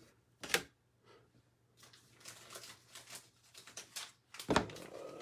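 Trading cards and plastic card sleeves being handled, with faint rustling. There is a sharp tap about half a second in and a louder knock near the end.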